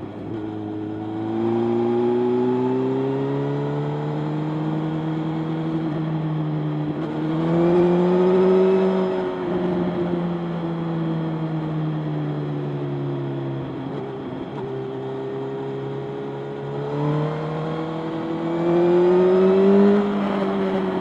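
Motorcycle engine running under way, its revs climbing and easing off several times, with louder surges about a third of the way in and near the end.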